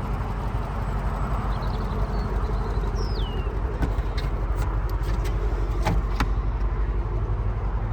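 Steady low vehicle rumble as the Range Rover Sport SVR's powered tailgate opens, with several sharp clicks about four to six seconds in and a brief falling whistle near three seconds.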